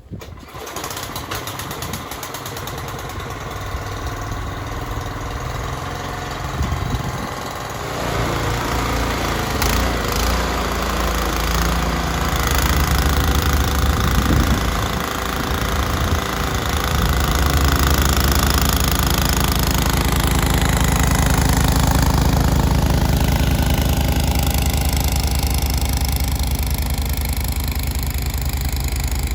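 Snowblower's single-cylinder Tecumseh engine running. Its pitch slides up and down between about 7 and 12 seconds in, then holds steady and loud for the rest.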